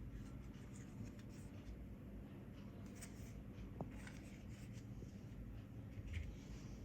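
Faint scratching and a few light clicks of small parts being handled on a work surface, over a low steady hum.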